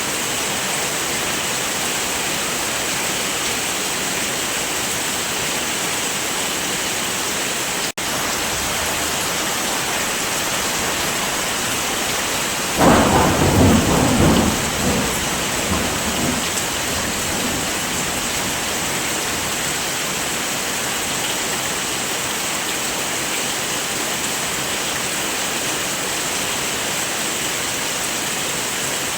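Steady heavy rain with a single thunderclap a little before halfway, which rumbles and dies away over a few seconds. The rain drops out for an instant about a quarter of the way in.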